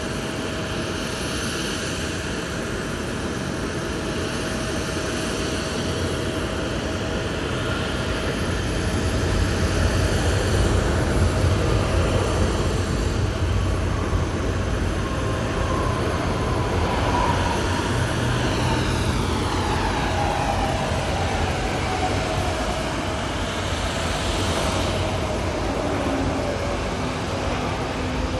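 Jet aircraft passing by: a low engine rumble that swells about a third of the way in, then a whine that falls steadily in pitch as the aircraft moves past.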